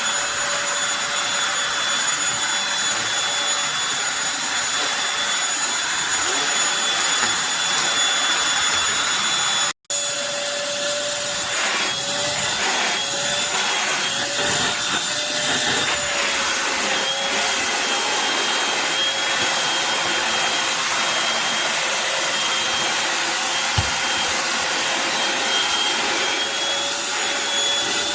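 Eureka Blaze corded stick vacuum running on a high-pile area rug: a steady rush of suction with a constant high motor whine. There is a momentary break about ten seconds in, after which the whine wavers slightly in pitch at times.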